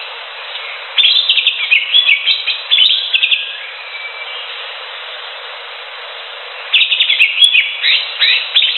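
Greater green leafbird (cucak hijau) singing: two bursts of rapid, varied chirping and whistled notes, about a second in and again near the end, over a steady background hiss.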